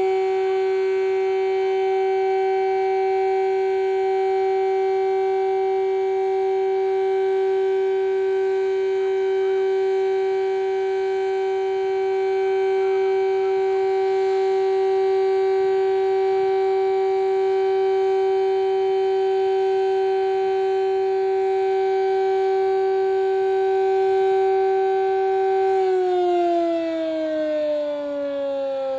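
Sterling Hurricane square-horn mechanical siren held at full speed with a single steady tone, then winding down about 26 s in, its pitch falling smoothly.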